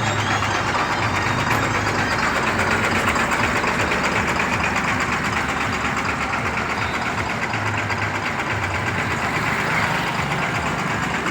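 Truck engine idling steadily, with a fast, even pulsing and a low hum.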